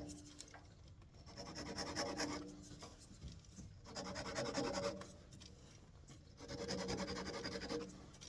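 Fine-toothed hand saw cutting through the last thin stub of birch wood to separate the turned wand from its stock. The rasping comes in three spells of strokes: about a second and a half in, around four seconds in, and from about six and a half to eight seconds in.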